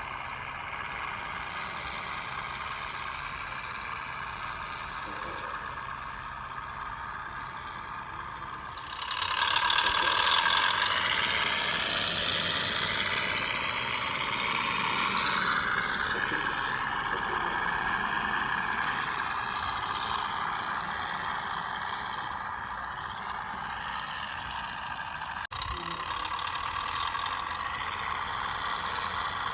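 Electric drive motor and gearbox of a radio-controlled Scania 6x6 truck whining, growing louder about nine seconds in and then rising and falling in pitch as the truck drives under load. The owner says it lacks maximum torque and suspects worn motor brushes or a wiring fault.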